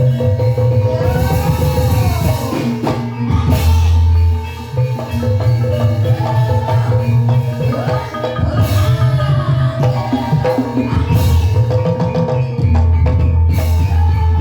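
Ebeg accompaniment music: tuned mallet percussion with a loud hand-drum beat underneath, playing continuously, with some gliding melodic notes on top.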